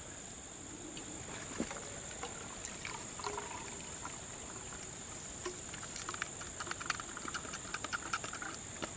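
Insects trilling steadily on one high pitch, with light clicks and taps scattered through the second half.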